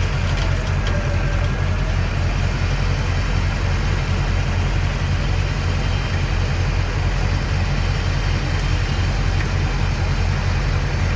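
Ford F-450 diesel truck engine running steadily, a low droning rumble with no change in speed.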